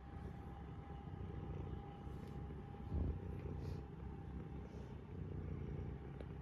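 A mother cat purring steadily, a low fluttering rumble close to the microphone, with one louder bump about three seconds in.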